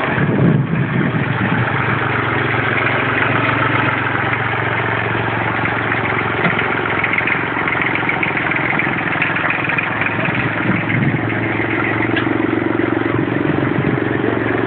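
Massey Ferguson 35 tractor engine running steadily at low revs as the tractor is driven, with a slight change in engine note about ten seconds in.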